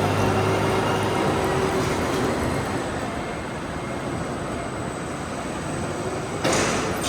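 Potato harvesting machinery running steadily. There is a low engine hum in the first second and a sudden louder rush of noise about six and a half seconds in.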